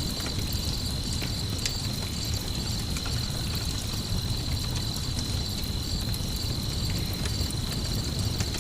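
Crickets chirping in a steady, evenly pulsing high trill over a crackling campfire, with scattered small pops and a low steady rumble beneath.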